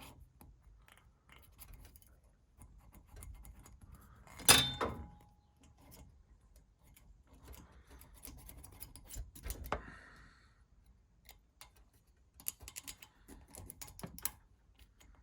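Small metal parts and tools clicking and clinking as an espresso machine's brew group is worked on by hand, with one sharp metallic clank about four and a half seconds in and a run of quick clicks near the end.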